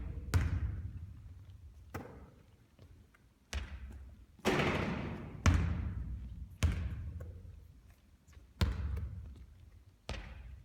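A basketball thudding on a hard court again and again during repeated shooting, each hit trailing off in echo. There are about eight impacts one to two seconds apart, with a longer, noisier one about four and a half seconds in.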